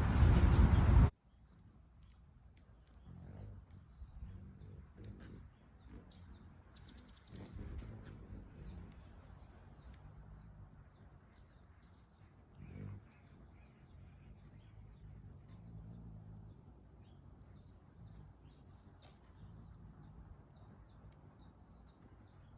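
A small bird chirping over and over: short, faint, downward-sliding chirps about once a second, over a low outdoor background hum.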